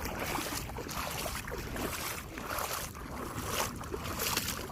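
Steady wash of sea surf and wind at the shore, with wind rumbling on the microphone.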